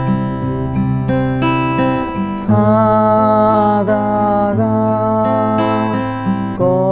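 Acoustic guitar fingerpicked in an arpeggio pattern, with a voice singing a slow folk melody over it and holding a long note from about two and a half seconds in.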